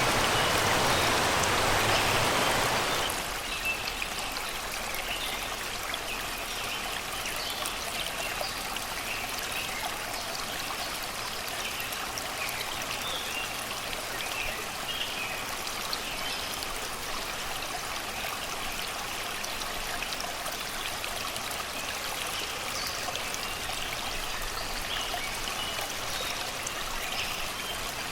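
Shallow river water flowing and babbling over rocks, a louder, fuller rush for about the first three seconds and then softer and steady. Scattered birdsong chirps over the water throughout.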